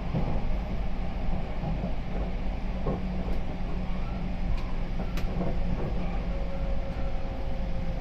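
Running noise of a 285 series sleeper electric train heard from inside the car as it moves along the track: a steady rumble, with a few sharp clicks between about three and five seconds in.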